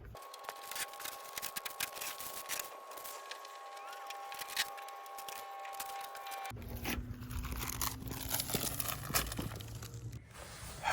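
Footsteps crunching in snow: a run of uneven crunches and crackles. A faint steady two-pitch hum sits under the first six or so seconds.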